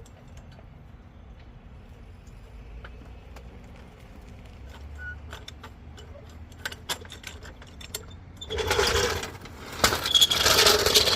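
Floor jack being lowered from under the engine: faint scattered metal clicks, then two loud rattling bursts of about a second each near the end.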